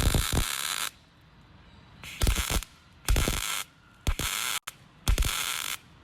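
Resistance spot welder making a series of spot welds, joining a replacement wheelhouse panel to a truck bedside: about five bursts of hiss, each under a second and each starting with a thump.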